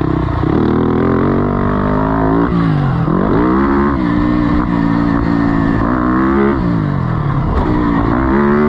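Four-stroke motocross engine revving hard, its pitch climbing and then falling sharply, three times over, as the throttle is opened and chopped on a run of jumps.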